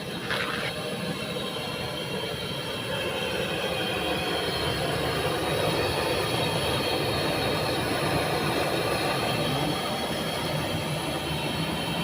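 Steady mechanical running noise with a high, multi-toned whine over a rough rasp, getting a little louder about three seconds in.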